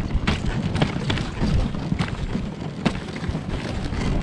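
Dog sled running along a bumpy trail: a steady rushing rumble with irregular knocks and rattles from the sled.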